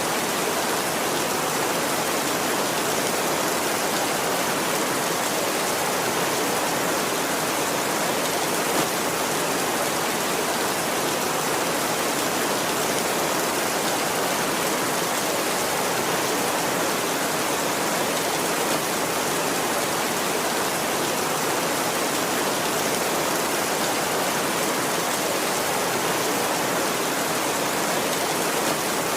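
Heavy rain on a tin roof, a steady, even hiss of dense drumming with no thunder.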